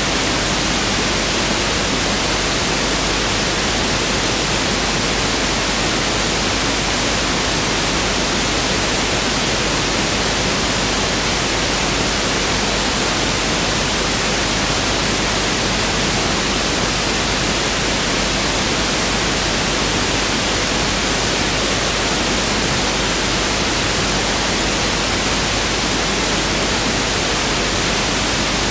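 Pink noise test signal (1/f noise): a steady, unchanging hiss spread evenly across the whole frequency range, without variation or events.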